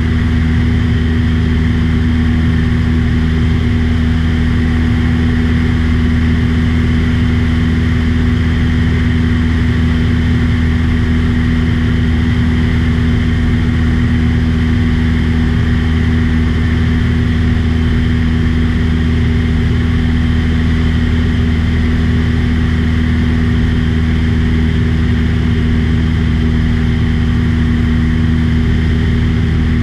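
Light aircraft's piston engine and propeller droning steadily in level flight, with an unchanging low hum.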